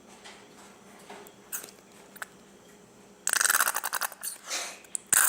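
Plastic glue bottle being squeezed out, with faint handling at first, then a loud crackle of many rapid clicks about three seconds in and shorter crackles near the end.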